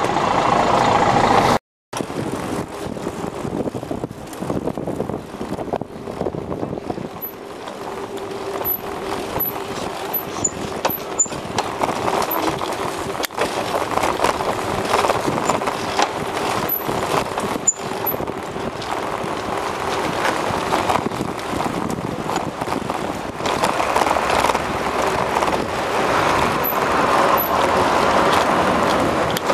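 Rushing wind and street noise picked up by a camera riding along on a fast-moving bicycle, with motor traffic passing. The sound drops out completely for a moment about two seconds in.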